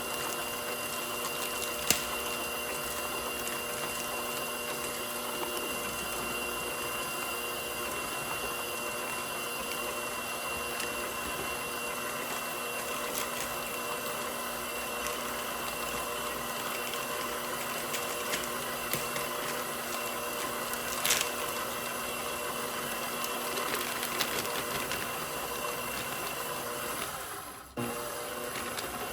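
KitchenAid Professional 6000 HD stand mixer's DC motor running steadily with a constant whine while a flex edge beater mixes brownie batter, the dry ingredients now added. A couple of sharp clicks sound about 2 and 21 seconds in, and near the end the sound dips briefly, then resumes.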